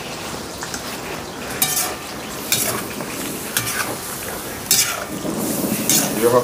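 Celery frying in a little oil in a skillet, sizzling steadily while it is stirred. The utensil scrapes and knocks against the pan about five times.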